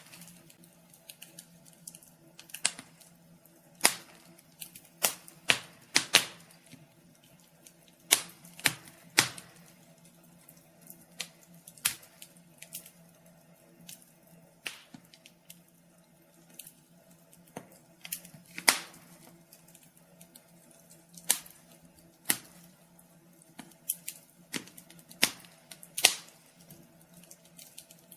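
Wood fire crackling: irregular sharp pops and snaps, a few of them much louder, over a faint steady low hum.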